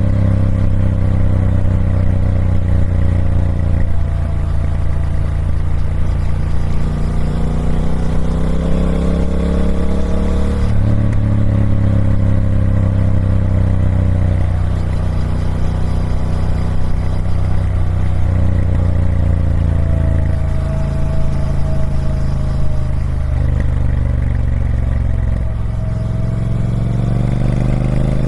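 Triumph Speed Twin 1200's parallel-twin engine running through its stock exhaust, the pitch slowly rising and falling as the revs change, with a sudden step in pitch about eleven seconds in.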